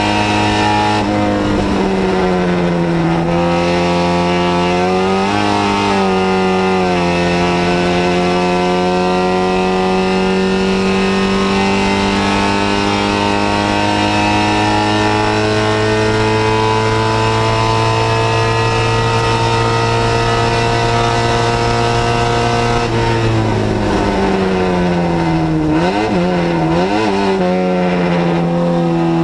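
A 1967 MGB GT race car's four-cylinder B-series engine under hard acceleration, heard from inside the cabin. The note dips and climbs a few times early on through gear changes, then rises slowly and steadily for a long stretch. About 23 seconds in it falls away and wavers up and down for a moment before climbing again.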